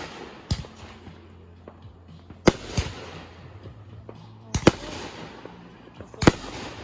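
Fireworks going off: sharp bangs about every two seconds, one of them a quick double, each followed by a fading crackle.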